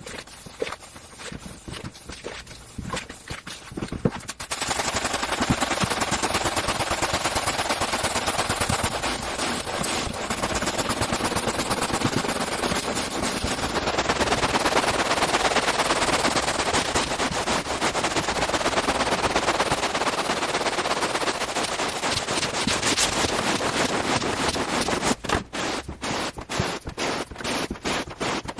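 A carpet-cleaning machine runs over a carpet with a dense, fast rattling noise that starts about four seconds in and stops about four seconds before the end. Separate scrubbing strokes come before and after it.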